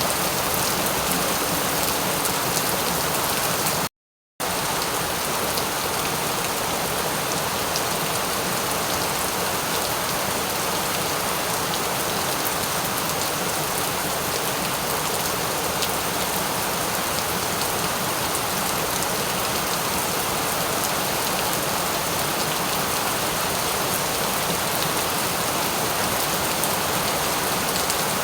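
Steady rain falling on a surface, an even hiss of many drops with no thunder. The sound cuts out completely for about half a second about four seconds in, then resumes unchanged.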